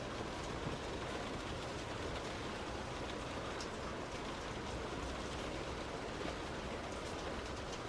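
Rain and a car's tyres on a wet road while driving: a steady hiss with scattered faint ticks of raindrops.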